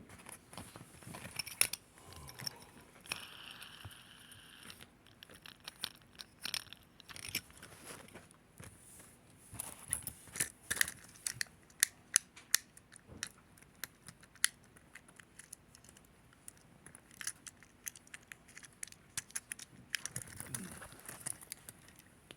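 Fidget toys being handled, giving irregular sharp clicks and snaps in clusters, with a short rasping stretch a few seconds in.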